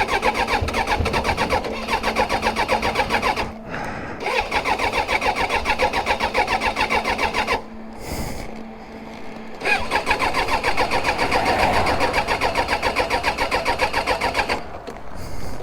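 Suzuki GSX600F's electric starter cranking the four-cylinder engine in three long attempts, each an even, rapid chug of about six pulses a second with short pauses between. The engine does not catch. The rider suspects fuel starvation, as the fuel tap had been off.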